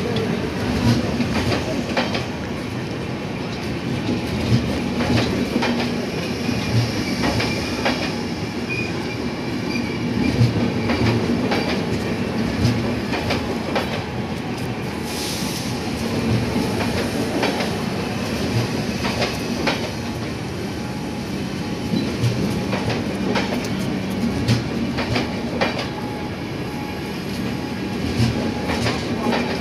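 Passenger coaches of an AC express train rolling past along a platform, the wheels clicking irregularly over rail joints with a steady low hum underneath. A brief hiss comes about halfway through.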